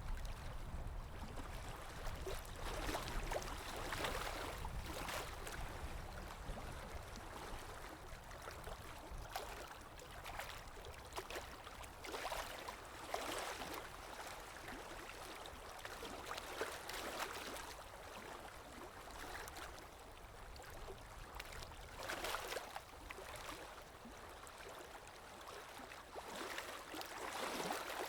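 Underwater ambience: a low rumble under washes of rushing, bubbling water that swell and fade at uneven intervals of a few seconds.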